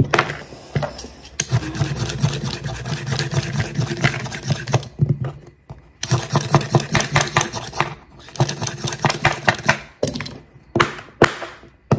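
A kitchen knife chopping carrots on a cutting board in quick runs of strokes, with short breaks about five and ten seconds in, then a few slower single chops near the end.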